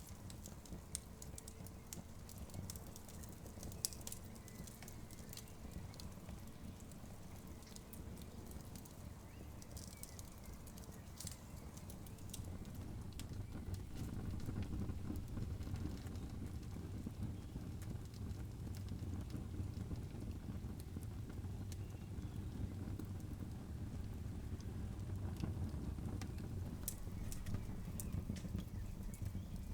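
Wood campfire burning: a steady low rumble of flames with scattered sharp crackles and pops, a little louder from about halfway through.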